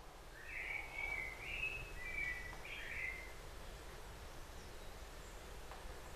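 A bird giving a short run of quick warbling chirps for about three seconds, faint over a steady low background noise.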